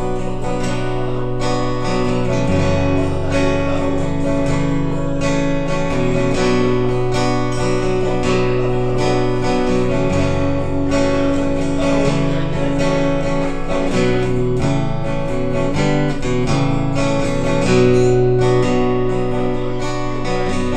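Acoustic guitar strumming chords, the instrumental intro of a live song played before the vocals come in.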